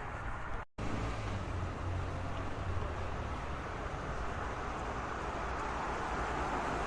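Road traffic noise: a steady rumble and tyre hiss of passing vehicles, cutting out completely for a split second a little under a second in, then continuing and growing slightly louder near the end.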